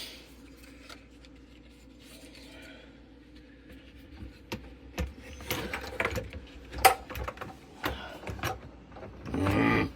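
Scattered clicks and knocks of hands working a plastic wiring connector onto a mass airflow sensor, starting after a few quiet seconds, with a louder rustling clatter near the end.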